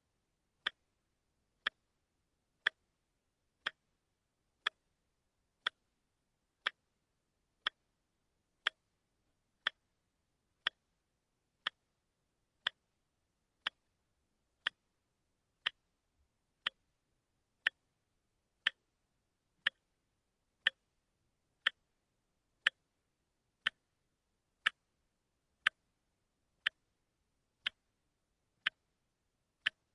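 Wristwatch ticking steadily, one sharp tick a second with silence between ticks.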